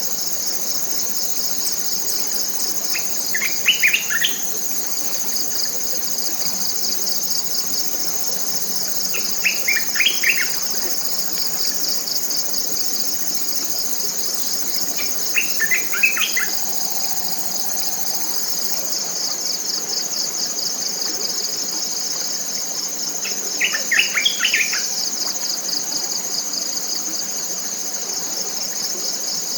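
A steady, high-pitched chorus of forest insects, with a bird singing a short phrase of quick notes four times, about every six to seven seconds.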